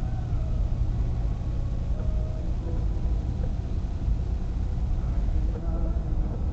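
Steady low rumble of a car driving on a snowy road: engine and tyre noise heard from inside the cabin.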